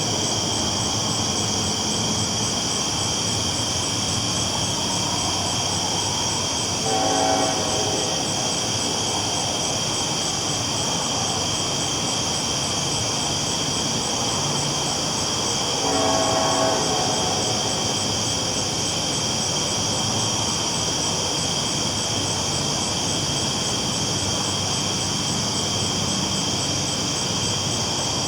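A train rolling along the tracks with a steady running noise, and two short blasts of the train horn, about seven seconds in and again about nine seconds later.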